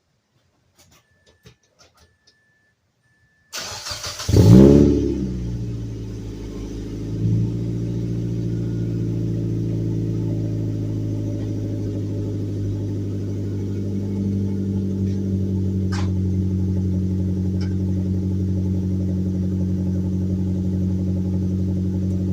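Cold start of a Mazdaspeed Protege's turbocharged 2.0-litre four-cylinder through a straight-piped exhaust with no muffler: after a few seconds of quiet with faint clicks, the engine cranks and catches with a sharp rev flare, dips, then steps up about three seconds later to a steady cold idle. The exhaust leak has been patched, and no leak is heard from up front.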